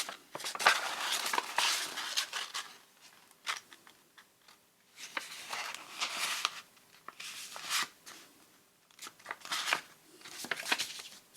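Scoring stylus scraping along paper on a scoring board, in several scratchy strokes with short pauses between.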